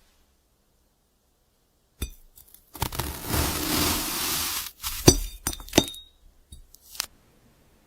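A knife slicing through a glass fruit: about two seconds of dense crackling crunch, then a few sharp glassy clinks, some with a brief high ring.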